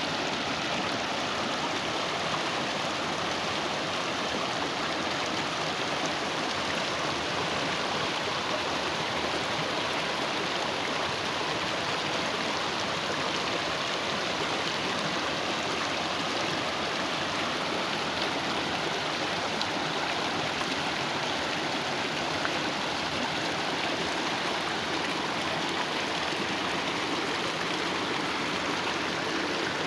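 Steady rushing of flowing water in a small stream or water channel, an even sound with no breaks.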